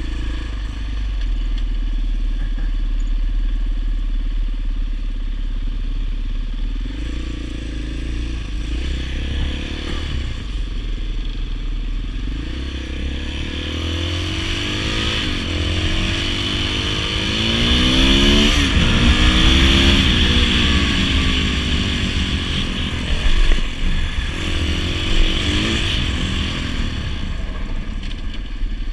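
Dirt bike engine running on the road. In the middle its pitch climbs and drops several times as it accelerates through the gears, then falls away. Two sharp knocks come near the end.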